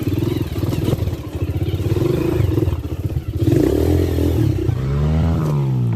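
Dirt bike engine running under throttle. Its pitch rises and then falls again near the end as it is revved and let off.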